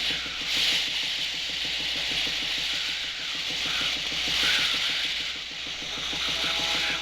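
Sound effect of a steam fire engine's pump working hard, a rapid, even mechanical chugging, over a steady hiss.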